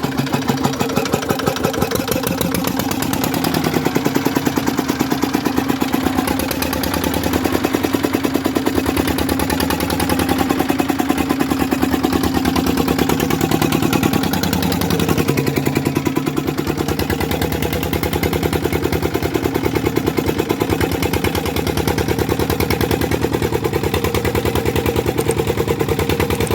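Single-cylinder Petter-type stationary diesel engine running steadily, with an even, regular firing beat.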